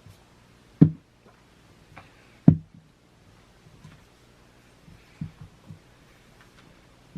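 Dull, low thumps: two loud ones about a second and two and a half seconds in, then three softer ones close together later on.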